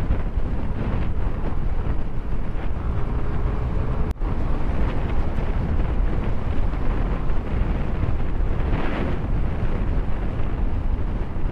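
Wind rumbling on an action camera's microphone during a motorcycle ride, with the motorcycle's running and road noise underneath. The sound breaks off for an instant about four seconds in.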